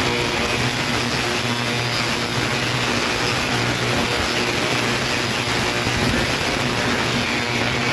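Steady electrical hum with a constant hiss from a machine running without change.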